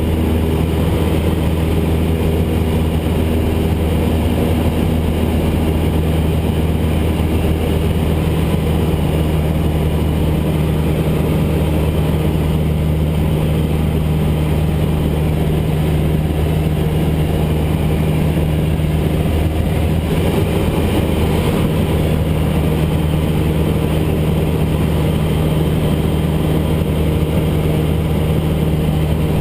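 Cessna 172S's four-cylinder Lycoming engine and propeller droning steadily, with a constant low hum and no change in pitch.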